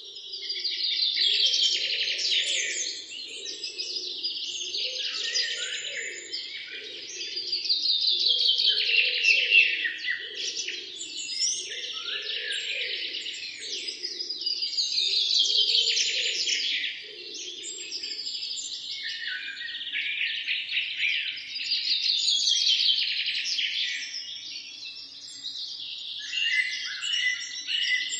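Several songbirds chirping and singing together. A loud falling trill comes back about every seven seconds over busier chirps, and a fainter low pulsing sound runs beneath until about two-thirds of the way through.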